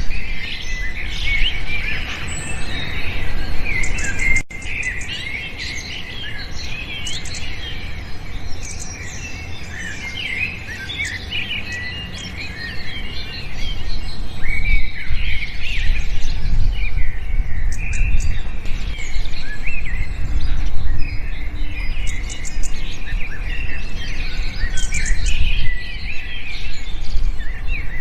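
A flock of small birds chirping and twittering all at once: many short, high, quick calls overlapping, over a low rumble. The chorus thins out for a while and grows dense and louder again about halfway through.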